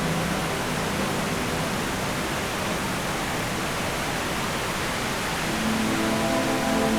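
Kothapalli Waterfalls rushing, a steady full hiss of falling water. Background music comes back in about five and a half seconds in.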